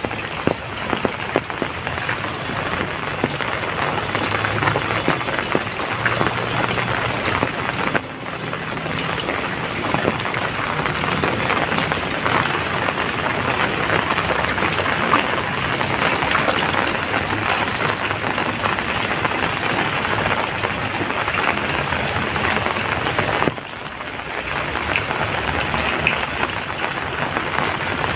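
Heavy rain falling steadily, a dense hiss of countless drops, dipping briefly in level twice.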